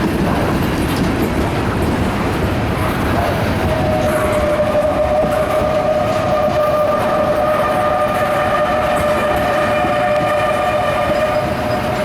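Loaded freight cars of a CSX mixed freight rolling past at close range: a steady rumble with wheel clatter. From about three seconds in, a long steady tone of a few pitches sounds over it and holds.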